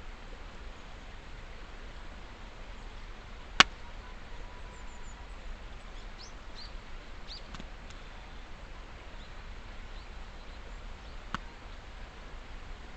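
Wood campfire burning, with a sharp loud pop about three and a half seconds in and a smaller pop near the end. A few faint short bird chirps come in the middle.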